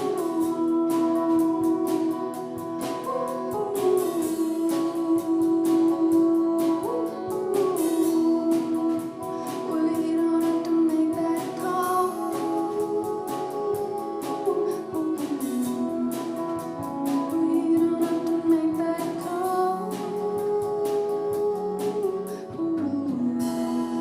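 Live band music: a sung melody held over guitar, with a steady beat of sharp strokes that stops just before the end.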